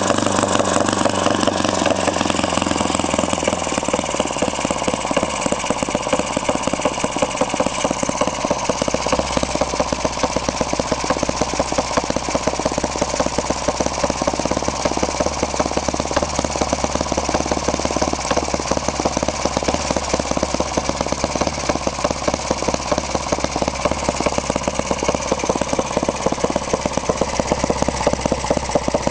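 LASER 80 single-cylinder four-stroke model engine, running on diesel fuel, on its first run with a rapid, steady firing beat. Its speed drops about four seconds in, then it runs evenly.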